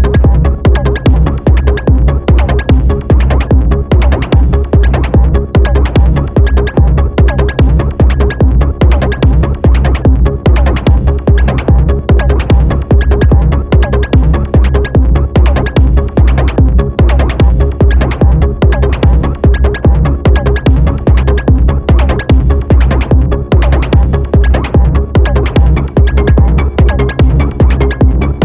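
Electronic techno-style music played on an Elektron Model:Cycles groovebox and Moog Sound Studio synthesizers: a steady, driving beat about two pulses a second over a heavy bass line.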